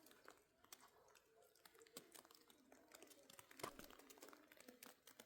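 Near silence, with faint scattered small clicks and light handling noises; one click, a little over three and a half seconds in, is slightly louder.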